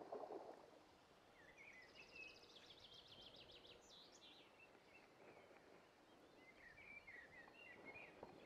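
Faint songbird song over a quiet background: a run of quick, repeated high chirps and trills, then a shorter twittering phrase near the end.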